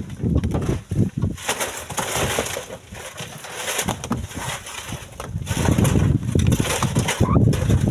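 Split stones being loaded by hand into a truck bed, knocking and clattering at irregular moments, with a low, rough rumble that grows heavier in the second half.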